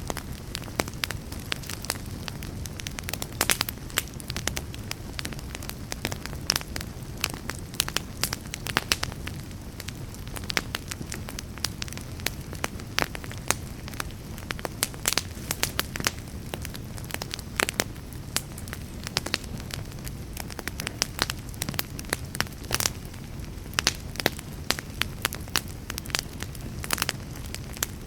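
Wood fire crackling in a fireplace: frequent irregular pops and snaps, some sharper and louder than others, over a steady low rumble.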